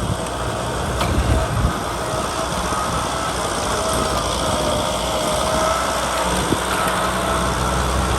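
Kubota tractor's diesel engine running steadily while plowing, with a faint wavering whine above the engine note.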